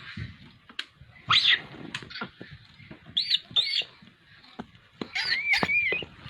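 Monkeys shrieking: short, high-pitched calls that rise and fall, three of them spaced through the first four seconds, then a longer wavering scream near the end. Scattered clicks and knocks sound between the calls.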